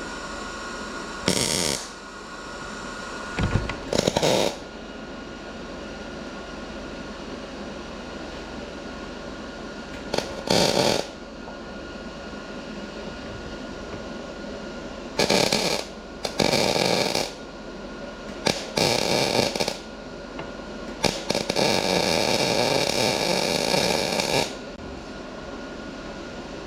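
Short runs of crackling arc welding on a thin, broken chainsaw muffler: about seven short welds, most under a second, and one longer bead of about three seconds near the end. A steady machine hum runs underneath.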